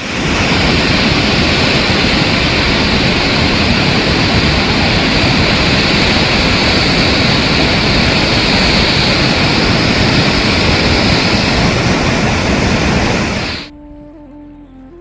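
Heavy rain pouring down in a loud, steady hiss that starts abruptly and cuts off suddenly near the end.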